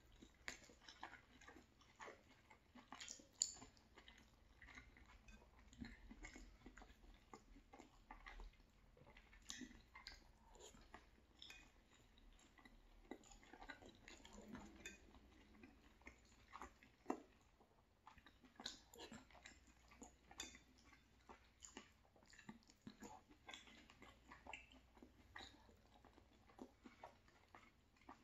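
Faint, close chewing of a mouthful of sausage rigatoni, with irregular small wet smacks and clicks, and the odd tap of a metal fork on the plate.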